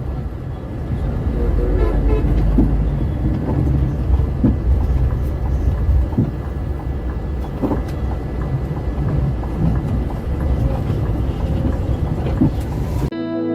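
Steady low rumble of a bus on the move, engine and road noise together, with a few light knocks.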